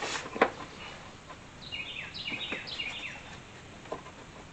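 A sharp knock about half a second in, then a bird singing a quick run of about six short falling chirps.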